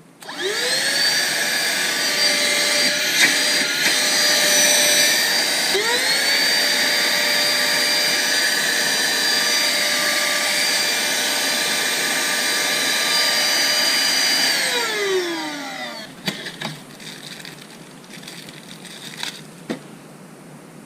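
Pemacom cordless handheld vacuum switched on: its motor spins up with a rising whine and runs steadily. About six seconds in it dips and spins back up, then winds down with a falling whine about fifteen seconds in. A few light clicks and handling knocks follow.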